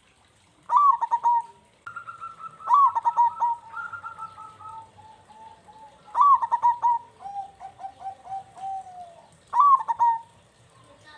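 Zebra dove (perkutut) cooing: four phrases, each opening with a loud note and running on into quick, softer rolling notes, with a second voice overlapping between phrases.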